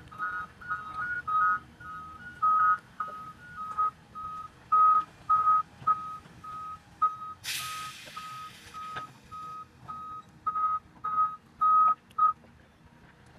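Vehicle back-up alarm beeping at one steady pitch, about two beeps a second, stopping about a second before the end; a second, slightly higher alarm beeps alongside it in the first couple of seconds. A loud burst of hiss comes about seven and a half seconds in, over a faint low machine rumble.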